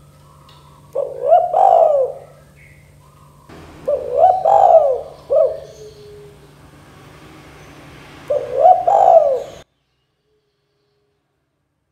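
Spotted dove (tekukur) cooing: three phrases of a few coos each, spaced a few seconds apart. A faint steady hum lies underneath, and the sound cuts off suddenly near the end.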